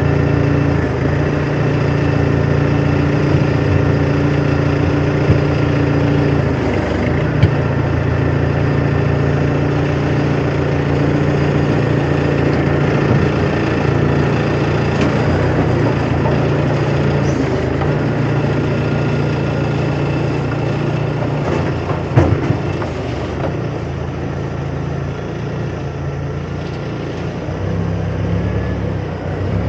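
A large vehicle's engine running steadily at close range, with a few sharp knocks about five, seven and twenty-two seconds in.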